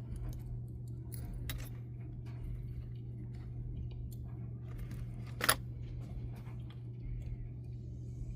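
Small clicks and taps of tools and tiny parts being handled while the motor is taken off an HO-scale model locomotive, with one sharper click about five and a half seconds in. A steady low hum runs underneath.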